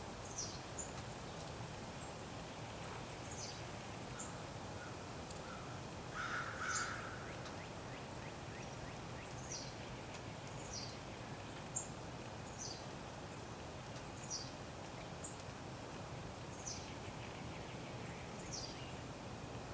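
Wild bird giving short high call notes that slide downward, repeated about once a second, with one louder, harsher, lower call about six seconds in, over a steady low background hum.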